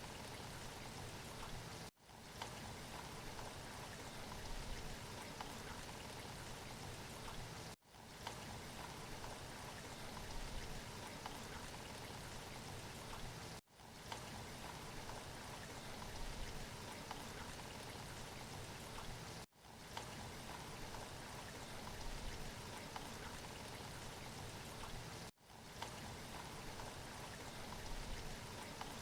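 Steady rain falling, a looped recording that cuts out for a split second about every six seconds.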